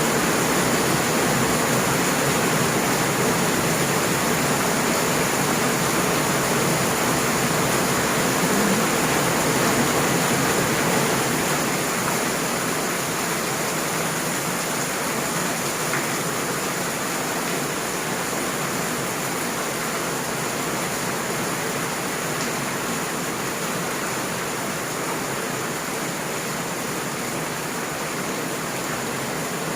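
Heavy rain falling in a steady hiss, easing a little about twelve seconds in.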